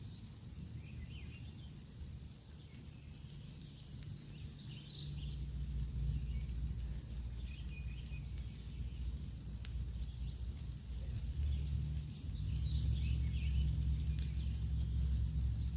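Campfire crackling with scattered sharp pops while small birds chirp in short bursts. A low rumble swells about five seconds in and again near the end.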